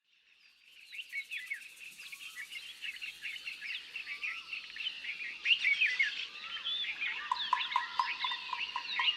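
A chorus of many small birds chirping and twittering, fading in over the first second and growing louder. About two-thirds of the way in, a lower note joins, repeated about four times a second.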